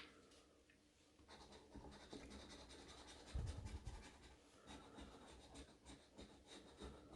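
A scratch-off lottery ticket being scratched: faint, rapid scraping strokes across the ticket's coating, starting about a second in.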